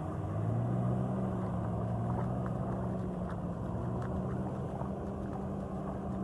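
A vehicle engine running steadily, a low even hum with no change in pitch.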